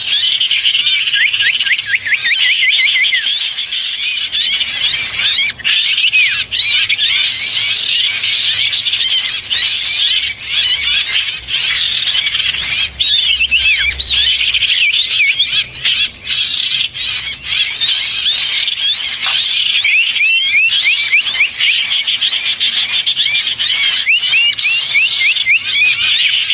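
Loud, dense chorus of many small songbirds chirping and calling over one another in quick, repeated short notes: a lure recording used to draw wild small birds in.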